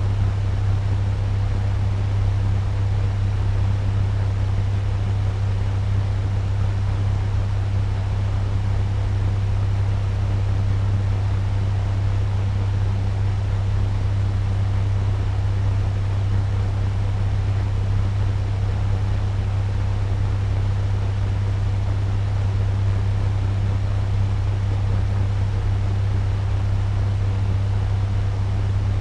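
Turbo fan running steadily at medium speed: a constant rush of moving air over a strong low hum, with no change.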